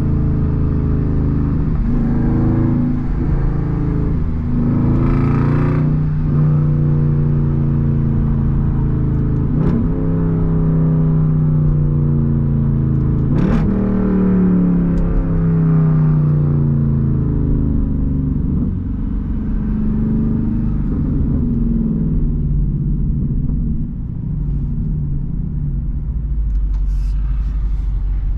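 Straight-piped 6.4-litre HEMI V8 of an SRT Jeep Grand Cherokee, heard from inside the cabin with the back windows cracked. It revs up through the gears in manual sport mode, its pitch rising and dropping back at each shift, with a few sharp cracks from the exhaust. The owner says it sounds "so crazy".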